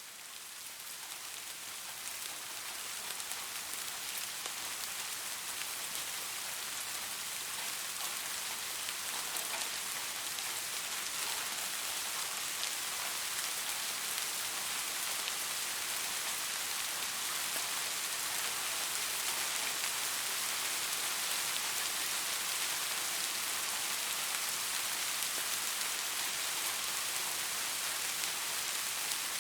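Steady rain falling, a dense even hiss with scattered individual drop ticks. It swells up over the first few seconds, then holds steady.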